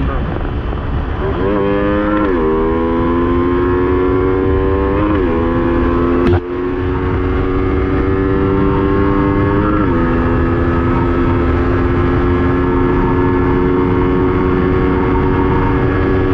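Yamaha Sniper 155's stock single-cylinder engine at full throttle on a top-speed run. It climbs in pitch and drops with each upshift, about two, five and ten seconds in, then holds a steady high note near top speed over a low rush of wind. One sharp click about six seconds in.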